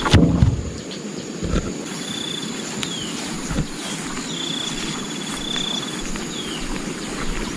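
Forest sound: a steady high insect drone, with short high whistled calls and falling slurs repeating through it. A loud thump comes right at the start, with two softer knocks later.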